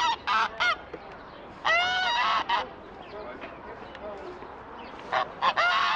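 Goose honking in several bouts: a few short honks at the start, a longer run of honks about two seconds in, and more honks near the end.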